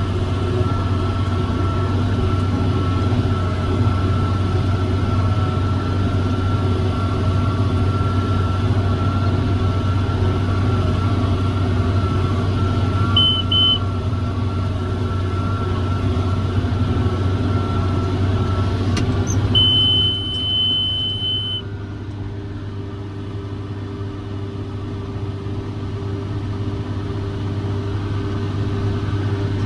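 John Deere 7410 tractor running steadily with a 468 round baler in tow, a constant engine hum with a steady whine over it. Two short electronic beeps sound about halfway through, and a longer beep of about two seconds follows later. After it the whine stops and the machinery gets quieter for a while, then builds back up.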